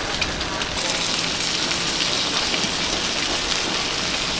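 Oil sizzling on a wide, shallow iron pan as seafood and egg fry: a steady crackling hiss that gets brighter and a little louder about a second in.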